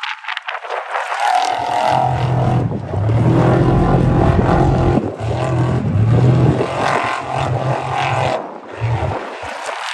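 Off-road race vehicle engine running hard, its note holding steady in stretches and dropping out briefly several times, over a rough haze of noise.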